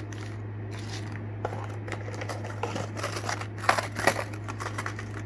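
Plastic packaging of soft-plastic fishing baits being handled, crinkling and rustling with scattered sharp clicks that are busiest about three to four seconds in. A steady low hum runs underneath.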